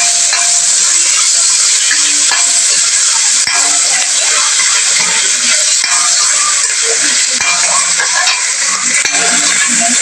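Sliced mushrooms and garlic sizzling in a stainless steel pan, stirred with a metal spatula: a steady frying hiss with a few scrapes and clinks of the spatula against the pan.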